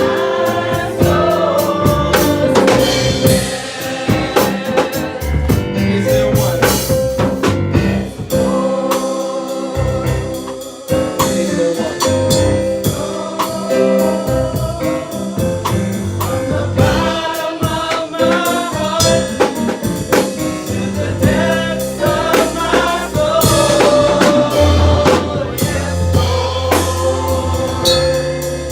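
Gospel music: a choir singing over a drum kit, with a held tone underneath.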